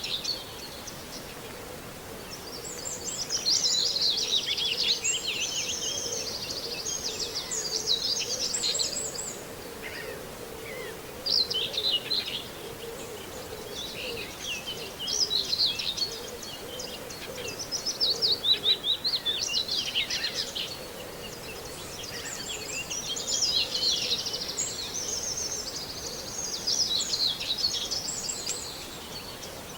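Songbirds singing, with the common whitethroat's scratchy, fast warbling phrases coming every few seconds among other birds' calls. A faint steady hum runs underneath.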